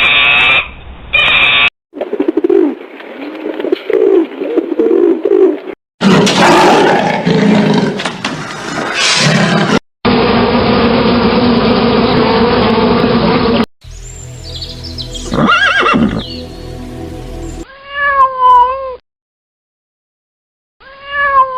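A string of different animal calls in short clips spliced together, each a few seconds long and cut off abruptly. The last two are short calls whose pitch dips and rises.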